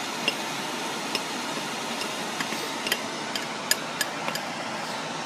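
A metal utensil knocking and clinking against a pot in irregular sharp taps as salmon is stirred into a thick white sauce, over a steady hiss.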